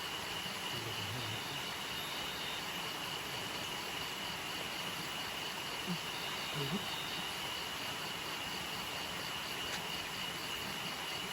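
Tropical forest nocturnal insects calling: one holds a steady high continuous trill, another repeats an even pulsing chirp above it. Both sound over a steady rushing noise from the nearby waterfall. There are two brief low sounds about six and seven seconds in.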